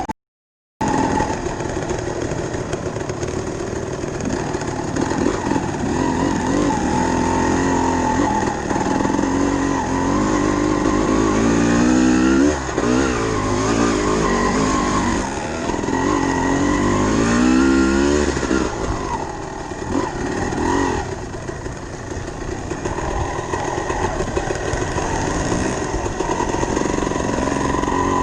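Dirt bike engine revving under riding, its pitch repeatedly rising and falling as the throttle opens and closes, busiest in the middle stretch. A brief dropout to silence just after the start.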